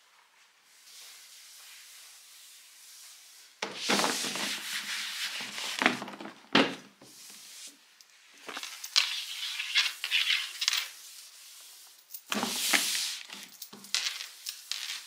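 Irregular rubbing and scraping noises in three bursts, with a sharp click partway through.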